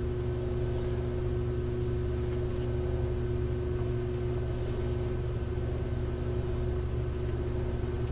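A car engine idling: a steady low rumble with a constant hum that does not change.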